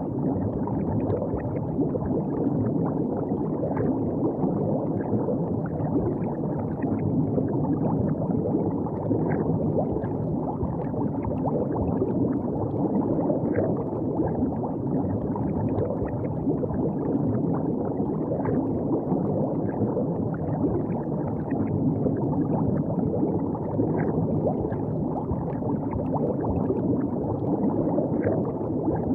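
River water flowing, a steady low rush with faint small splashes scattered through it.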